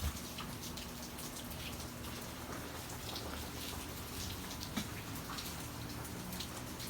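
Steady rain falling, with many separate drops splashing.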